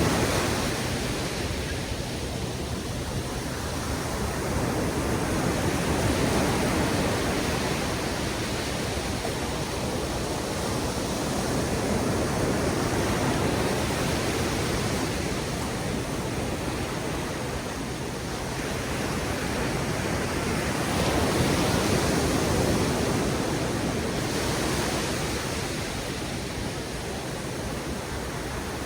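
Ocean surf breaking on a beach: a continuous wash of noise that swells and eases every several seconds as waves come in.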